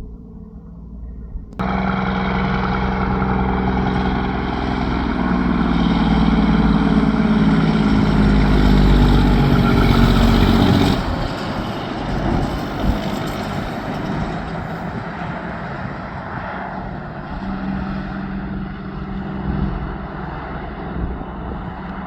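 Heavy tractor-trailer truck's diesel engine running loud as it passes. It starts abruptly, builds to its loudest about halfway through, drops suddenly, then carries on quieter.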